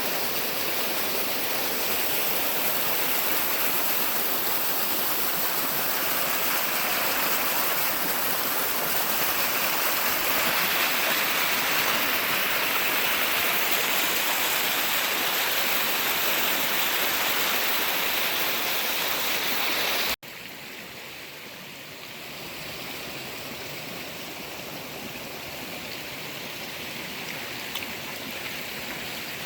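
Creek water flowing, a steady rush of noise. About twenty seconds in it cuts abruptly to a quieter stretch of flowing water.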